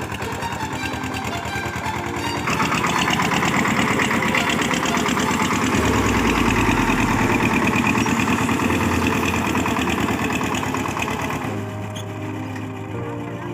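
Tractor diesel engine running. It grows louder about two seconds in and eases off again near the end.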